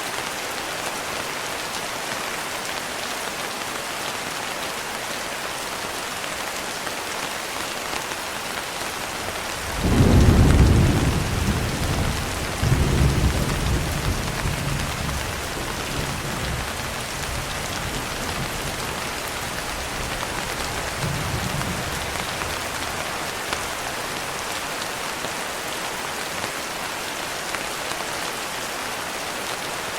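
Steady rain with a roll of thunder: a deep rumble breaks in suddenly about a third of the way in. It surges a second time a few seconds later and fades away over roughly ten seconds, under the unchanging rain.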